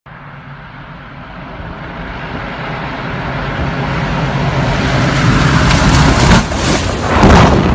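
Aircraft engine noise growing steadily louder as the aircraft approaches, then a falling pitch sweep near the end as it passes close by.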